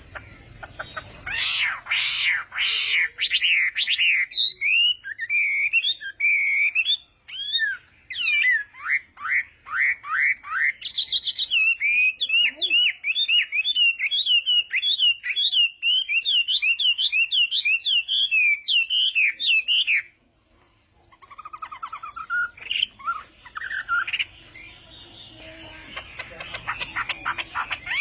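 Chinese hwamei singing a varied song of whistled phrases, including a long run of quick repeated notes. The song breaks off briefly about twenty seconds in, then starts again.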